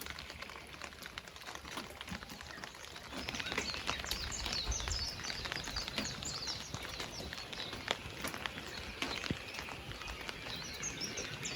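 Birds chirping, with many short, quick high calls from about three seconds in, over scattered light taps.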